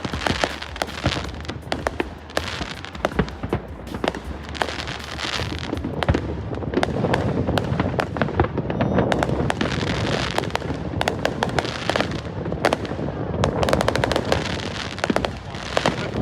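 Fireworks going off in a dense, continuous barrage: rapid overlapping cracks and pops with a steady crackle beneath, some louder bangs standing out.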